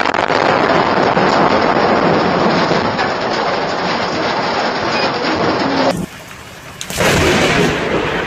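Heavy rain with rolling thunder during a severe thunderstorm. The sound drops away suddenly about six seconds in, and a loud burst of thunder and rain comes back about a second later.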